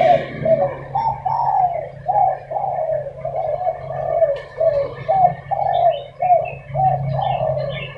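Spotted doves cooing back and forth in a steady run of short coos, about two or three a second.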